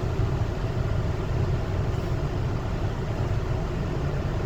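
Automatic car wash running on a car during the soap stage, heard from inside the cabin as a steady, muffled low rumble.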